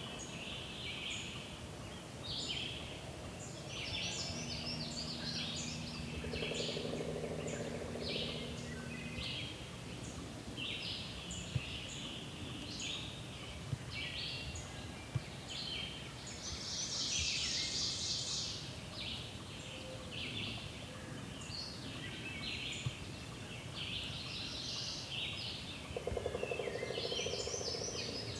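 Songbirds singing continuously, with a wild turkey gobbling twice: a rapid rattling gobble about six seconds in and another near the end.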